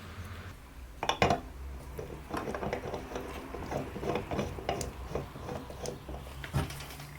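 Irregular clicking and clinking of small metal parts being handled and fitted together, the loudest knocks about a second in and near the end, over a faint steady low hum.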